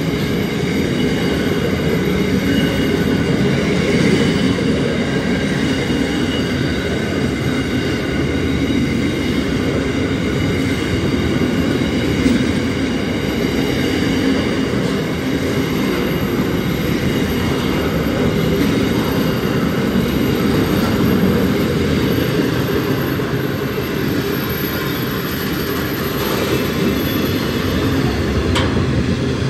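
Long container freight train rolling steadily past, its wagons' wheels running on the rails in a continuous rumble, with faint high ringing tones from the wheels.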